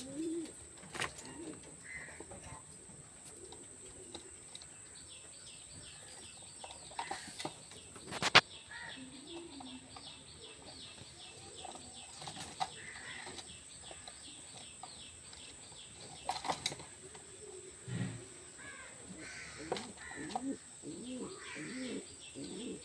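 Pigeons cooing, with a long run of high, quick chirps through the middle and several sharp knocks or taps, the loudest about eight seconds in.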